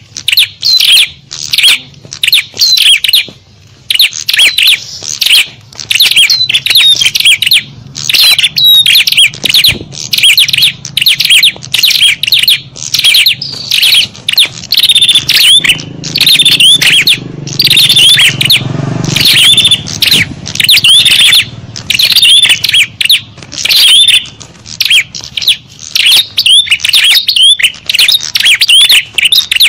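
Bird-lure recording of small songbirds chirping and twittering loudly and continuously, with quick high chirps and short rising and falling whistles packed closely together, a noisy mixed call used to draw small birds in.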